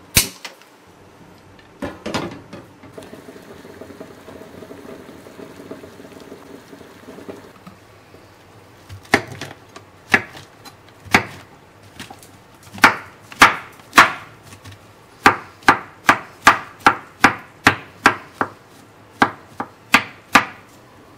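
Chef's knife chopping button mushrooms on a wooden cutting board: single strokes about a second apart, then a quicker run of two or three strokes a second as they are minced. A sharp click at the very start comes as a hand-held gas lighter is triggered at a stove burner.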